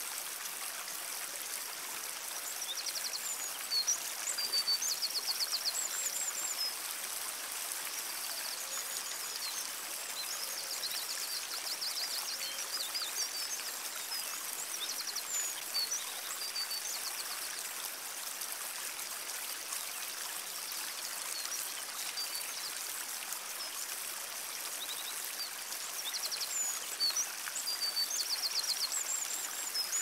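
Small songbirds chirping and singing short rapid trills, over a steady rushing hiss.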